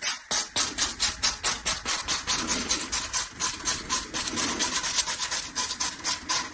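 Sandpaper rubbed briskly back and forth on a plastic drain pipe in rapid, even strokes of about six a second, roughening the surface to key it for solvent cement.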